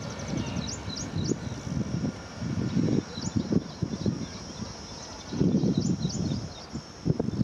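Small birds chirping in short high calls, a quick series about half a second in and a few more later, over irregular gusts of wind buffeting the microphone.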